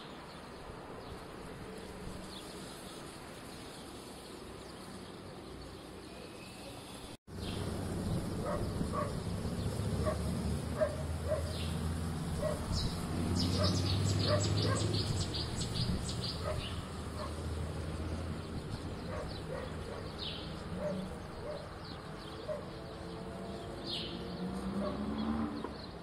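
Small birds chirping and calling over a low steady rumble. It is quieter at first, then louder after a cut about seven seconds in, with a quick run of repeated high chirps about halfway through.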